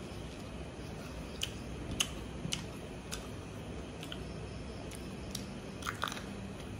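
Close-miked mouth sounds of a person eating rice and pork by hand: chewing with a scattering of sharp wet smacks and clicks. A steady low hum runs underneath.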